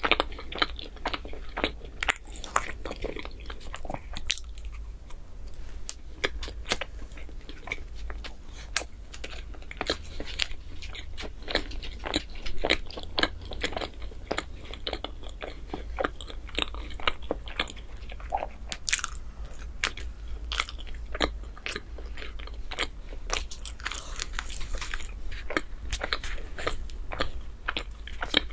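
A person eating chocolate bread close to the microphone: bites and chewing with many short, irregular crackly clicks of the mouth and food.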